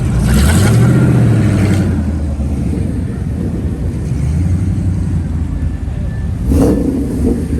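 Car engine running with a low rumble as cars drive in, revving up for over a second about half a second in. It settles back to a steady rumble, with a short sharp burst near the end.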